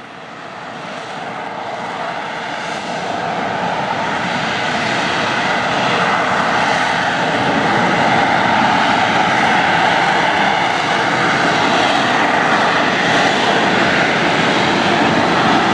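AV-8B Harrier jump jet's Pegasus vectored-thrust turbofan, a steady jet noise that builds over the first six or seven seconds and then holds loud.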